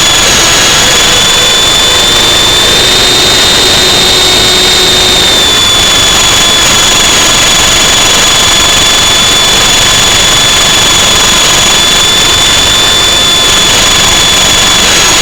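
The F45 remote-control aircraft's electric motors and propellers give a steady high-pitched whine. The pitch rises slightly about three seconds in and drops back a couple of seconds later, with a rushing noise underneath.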